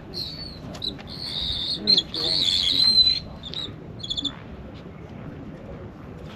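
Birds calling: a long, high chattering call for about two seconds, then a quick run of short chirps about four seconds in, with faint voices in the background.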